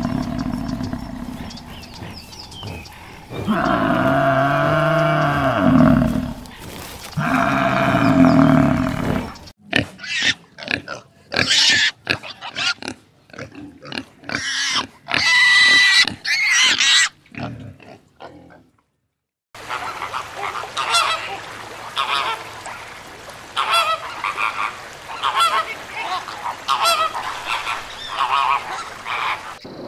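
A run of animal calls. First water buffalo low in two long calls. Then piglets squeal in many short, sharp cries. Then flamingos honk over and over.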